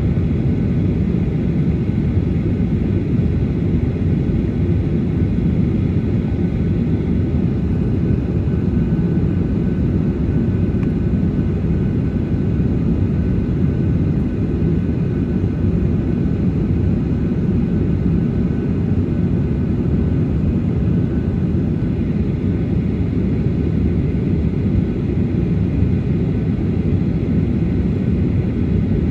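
Cabin noise of a Boeing 737-800 taxiing: a steady low rumble from its CFM56 engines at taxi power, with a faint steady whine above it.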